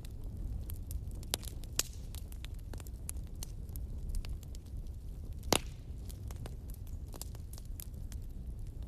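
Wood fire crackling and popping over a low steady rumble, with one sharp, louder pop about halfway through.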